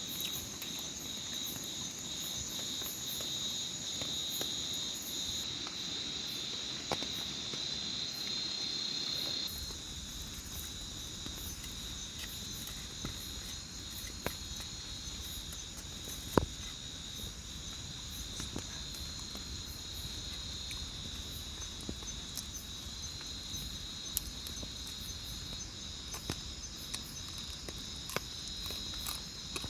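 Crickets and other insects calling in a steady chorus of several high, even tones, with scattered faint clicks and one sharper click about sixteen seconds in. A low rumble joins underneath about nine seconds in.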